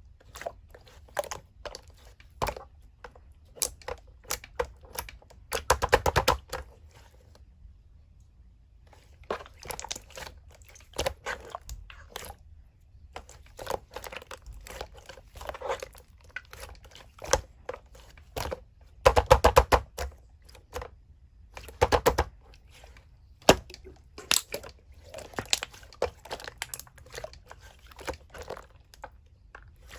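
Slime being squished and stretched by hand: a string of sticky clicks and pops, with dense runs of rapid popping about six seconds in and again around nineteen seconds in.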